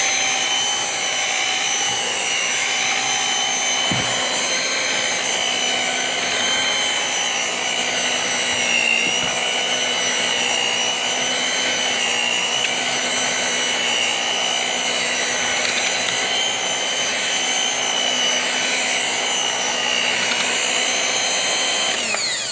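Electric mixer running steadily at a high speed setting, beating oatmeal-raisin batter with a motor whine. Near the end it is switched off and the whine falls in pitch as it winds down.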